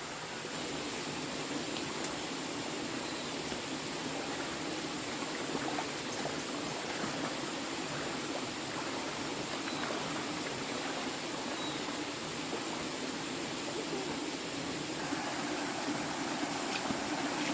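Steady rush of running water that swells slightly about half a second in and keeps an even level throughout.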